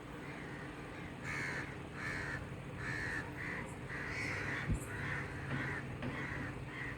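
A bird calling in a quick series of about ten short calls, roughly two a second, starting about a second in. A steady low hum runs underneath, and there is one sharp click about two-thirds of the way through.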